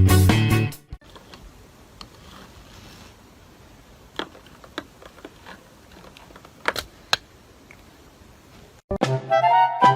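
Music stops about a second in, leaving a quiet room with a few scattered light clicks and taps, then music starts again near the end.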